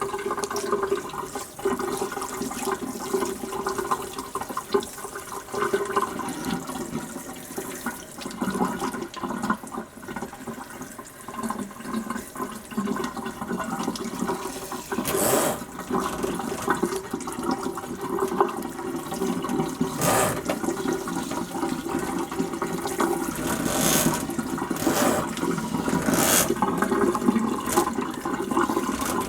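Water running steadily during a puppy's bath, with a few short, sharper sounds from about halfway through.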